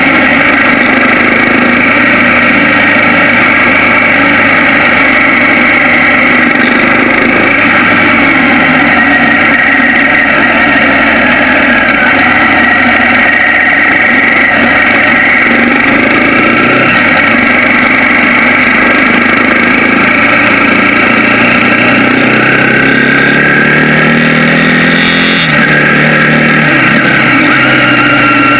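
Bajaj Pulsar 200NS single-cylinder engine running under way, heard close up from a mount on the bike. About three-quarters of the way in its pitch rises as it accelerates, then drops.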